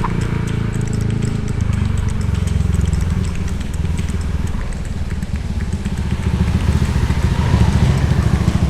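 Motorcycle engine running while riding, a dense low rumble; it eases off about five seconds in, then picks up again.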